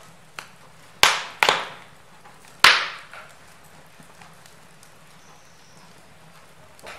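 Wood fire in a fireplace crackling: a handful of sharp pops, the loudest about two and a half seconds in, over a faint steady hiss.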